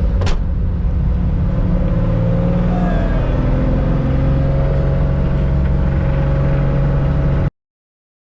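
1965 Porsche 911 2.0's air-cooled flat-six running, heard from the cockpit, with one sharp click about a quarter second in and the engine note changing pitch around three seconds in. The sound cuts off suddenly near the end.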